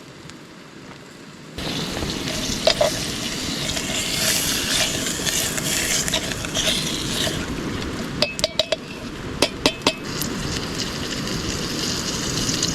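Ground beef sizzling in olive oil in a metal canteen pot over a campfire, stirred with a metal utensil. It starts suddenly after about a second and a half, and sharp clinks of the utensil against the pot come in two quick clusters about two-thirds of the way through.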